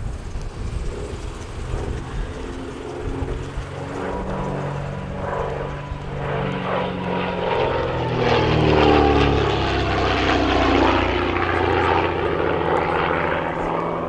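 Twin de Havilland Gipsy Six piston engines of a DH.88 Comet racer running, growing louder to a peak about nine seconds in, their pitch falling slightly as the aircraft passes.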